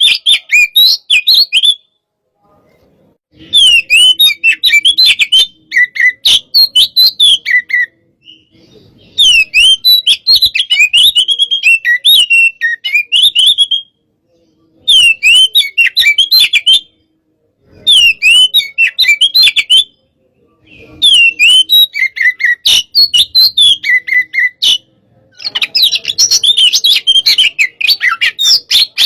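Oriental magpie-robin (kacer) singing loud, rapid bouts of sharp whistled notes and chattering phrases, each bout a few seconds long with short pauses between them. It is a fired-up, 'hot type' bird in full song, the kind used to provoke other birds into singing.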